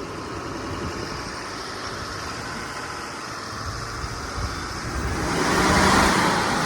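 GMC Sierra 2500 AT4X heavy-duty pickup's engine revving with its wheels spinning in deep mud while stuck, growing louder over the last couple of seconds.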